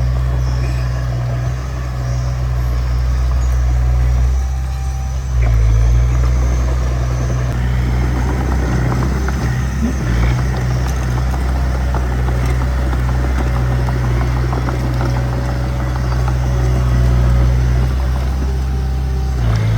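D20P bulldozer's diesel engine running steadily. It eases off about four seconds in and picks up again a second later, with light clanking over the engine from about eight seconds in.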